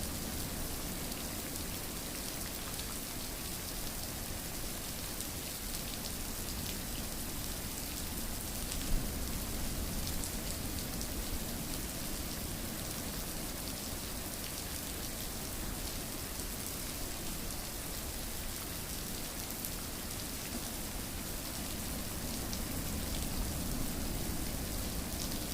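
Steady rain falling: an even hiss of many drops with fine ticks scattered through it, and one louder sharp tick about nine seconds in.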